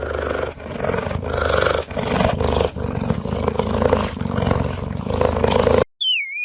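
A large wild animal roaring in repeated swells for about six seconds. It stops abruptly, and then a short high call dips and rises in pitch at the end.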